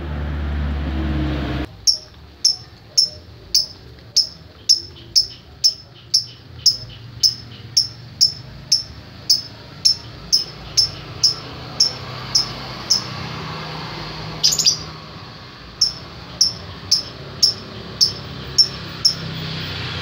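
Lovebird chirping in its 'ngetik' typing-like song: a long run of short, sharp, high chirps at about two a second, with a brief pause and a rougher burst in the middle. A low rumble cuts off suddenly about two seconds in.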